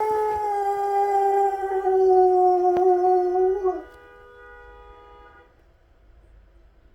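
Czechoslovakian wolfdog howling: one long, slightly falling howl of nearly four seconds that bends and breaks off at the end. A fainter steady tone lingers for a second or two after it.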